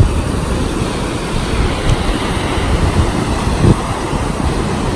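Strong wind buffeting the microphone, with the rush of rough surf beneath it.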